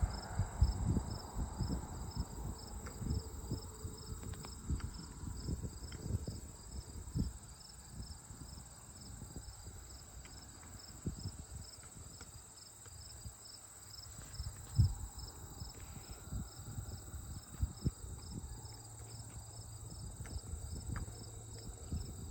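Crickets chirping in a steady, even pulse, with low gusts of wind buffeting the microphone and a few bumps.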